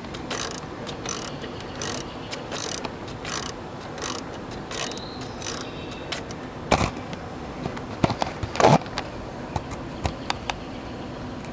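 A ratchet wrench being worked in short, regular strokes, about two a second, for the first five seconds or so. It is followed by a few sharp metal clanks of tools, the loudest about two-thirds of the way through.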